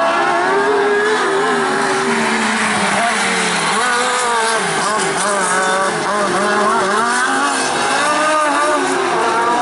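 Speedway sidecar engines racing around the track, several at once, their pitch rising and falling as they rev through the turns.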